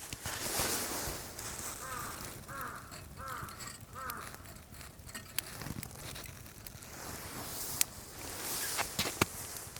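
A bird calling four times in quick succession, each short call arching up and down in pitch, over a steady outdoor hiss with scattered sharp clicks and knocks.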